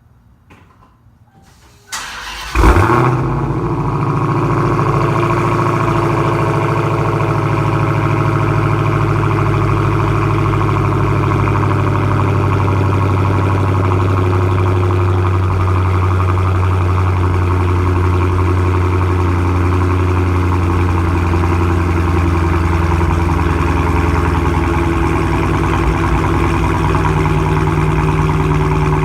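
Dodge Hellcat's supercharged 6.2-litre V8 started about two seconds in, through an exhaust with the mid-mufflers deleted. A brief crank and a loud flare of revs, then it settles into a steady idle.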